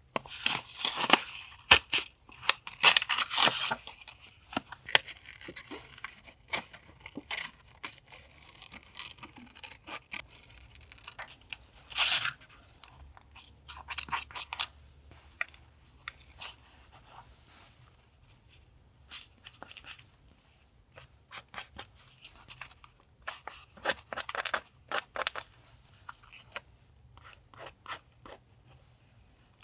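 Paper being handled for collage journaling: crisp rustling and tearing of paper in irregular bursts, with short snips, loudest near the start and about twelve seconds in.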